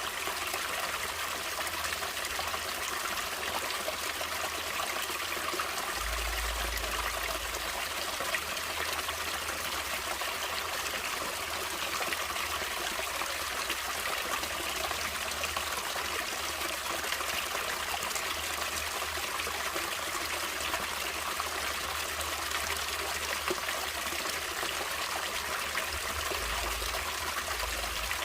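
Running water of a stream trickling and splashing in a steady, even rush.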